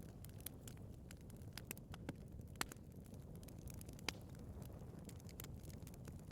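Wood fire burning in a fireplace: a steady low rumble of flames with irregular crackles and pops from the burning logs, the sharpest pops about two and a half and four seconds in.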